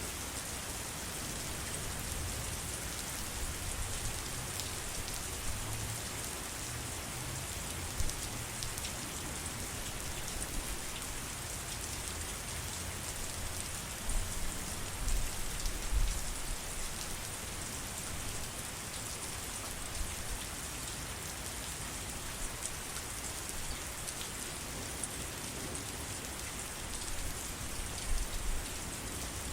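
Steady heavy rain falling, a dense even hiss with scattered drop ticks and a few brief low thuds.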